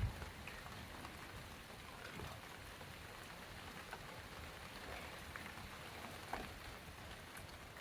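Rain falling steadily and faintly, with scattered drops tapping on a nearby surface. There is a sharper tap right at the start and another about six seconds in.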